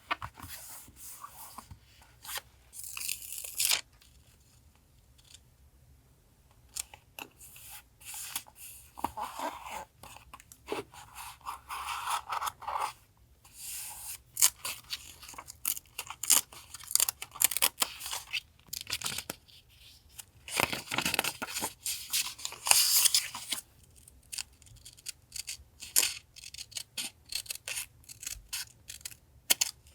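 Paper and tape being torn, peeled and handled on a desk for a collage, with many small taps and rustles and a few longer tearing sounds.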